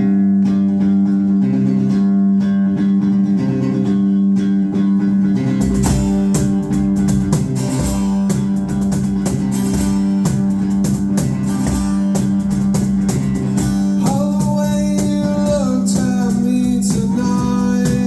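Live rock band playing the opening of a song on guitars: a steady guitar figure at first, then the rest of the band comes in, fuller and heavier, about five and a half seconds in, with a higher melody line over it near the end.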